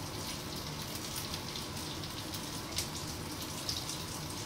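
Potato patties shallow-frying in oil in a pan, a steady soft sizzle as they brown.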